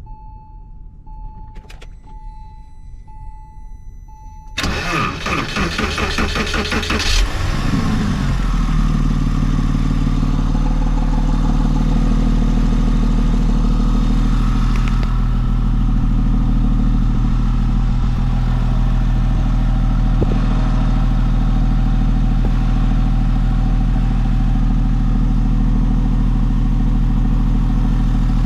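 An electronic warning tone sounds steadily with short regular breaks. Then the 2003 Porsche Boxster's flat-six engine cranks for about two and a half seconds, catches, and settles into a steady idle.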